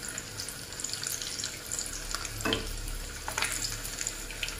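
Crumb-coated chicken and potato kababs shallow-frying in oil over a low flame: a steady sizzle with scattered small crackles.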